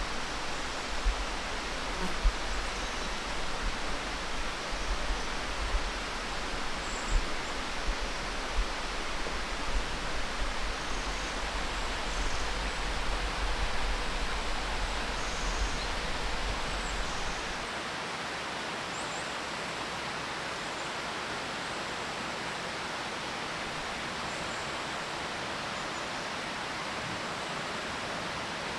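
Steady rushing outdoor ambient noise, with a few sharp clicks in the first half; a low rumble underneath drops away about two-thirds of the way in.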